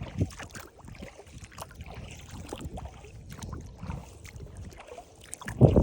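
A person wading through shallow water, each step sloshing and splashing irregularly, with a louder splash near the end.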